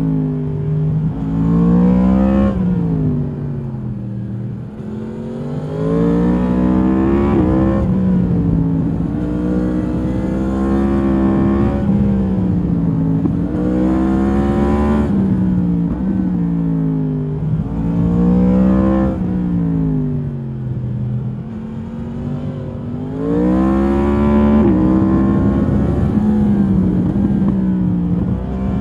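2022 Yamaha MT-10's crossplane inline-four through its stock exhaust, heard from the rider's seat while riding hard. The engine pitch repeatedly climbs under throttle and drops back as the throttle closes, with a long falling slowdown a little past the middle and a hard pull again about three quarters of the way through.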